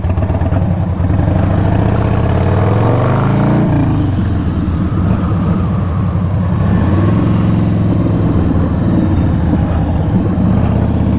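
Harley-Davidson Dyna Low Rider's V-twin engine rising in pitch as it revs or accelerates from about a second in, dropping off sharply a little before four seconds, then running fairly steadily with small swells in speed.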